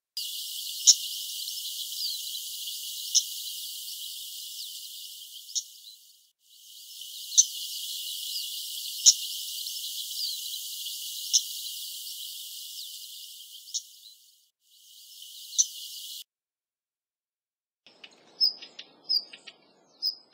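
Daurian redstart calls: sharp single call notes about every two seconds over a steady hiss. They stop a few seconds before the end, where a few faint chirps follow.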